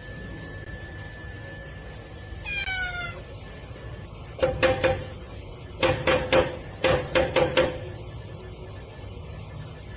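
A cat meowing: one falling call, then three quick runs of short, clipped meows in rapid succession.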